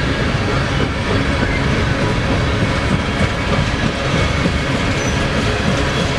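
Loaded coal train's hopper cars rolling past, a steady loud rumble and clatter of steel wheels on rail, with a brief faint high wheel squeal about five seconds in.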